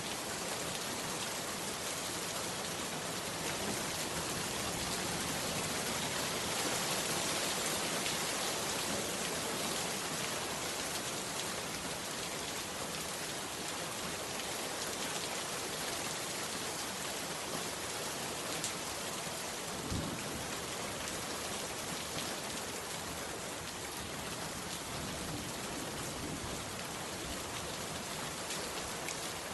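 Heavy rain falling steadily on a bamboo hut, an even, unbroken hiss of drops. There is one soft low thump about twenty seconds in.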